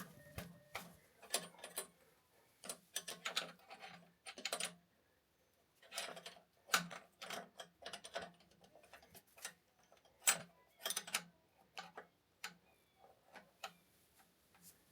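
Hand wrench working on the fuel-line connections of a diesel injection pump: short, irregular metallic clicks and small runs of clicking as the fittings are loosened.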